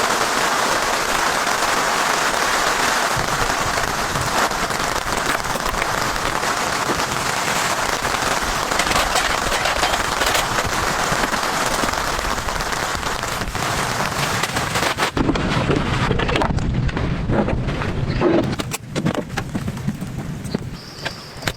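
Heavy rain falling, a dense hiss full of separate drops striking a surface. About fifteen seconds in, the hiss thins and drops lower, leaving scattered knocks and patters.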